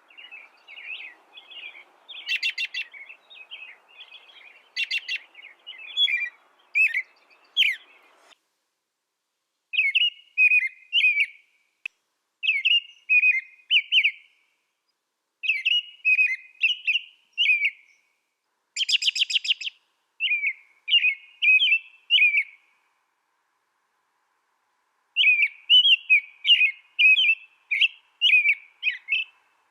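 A small songbird singing in short, quick twittering phrases of about two seconds, separated by pauses. The phrases are mixed with a few harsh, buzzy notes, the loudest about two-thirds of the way in.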